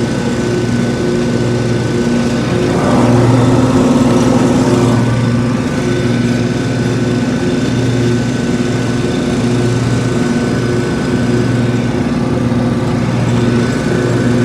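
Lawn mower's small engine running steadily, getting louder for a couple of seconds about three seconds in, as if taking load.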